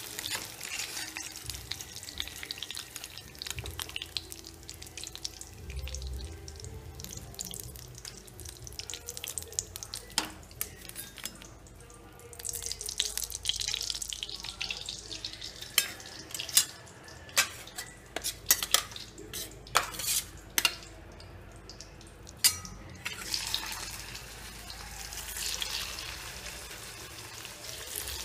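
Chicken pieces frying in hot oil in a pan: a steady sizzle that thins for a moment about halfway, then comes back. Past the middle, a run of sharp clicks and knocks sounds over it.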